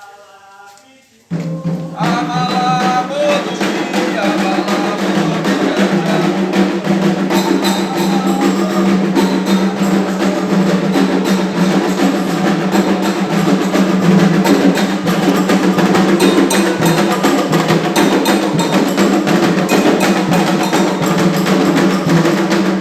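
Loud percussion music with drums and sharp wood-block-like strikes, cutting in abruptly about a second in over faint singing.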